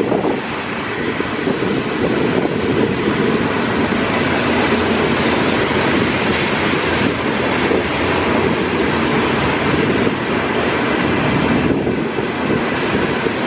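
A freight train of tank cars rolling past, a steady loud rumble of wheels on rail.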